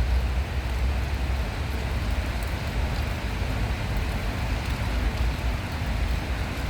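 Outdoor ambience: a steady rushing noise with an unsteady low rumble, the rumble strongest in the first second and a half.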